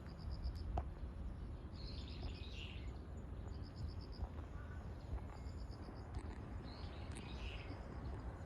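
Outdoor ambience: a low steady rumble with short trains of rapid, high chirps that repeat about every two seconds.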